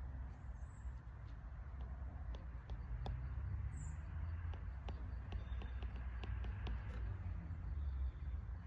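Outdoor ambience: a steady low rumble with scattered light clicks and two brief high chirps, one about half a second in and one near four seconds.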